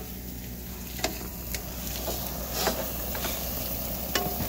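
Food sizzling in a pan as leftovers are reheated, with a few sharp clicks scattered through it.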